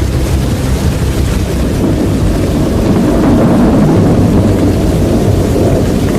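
Strong storm wind buffeting the microphone: a loud, steady low rush.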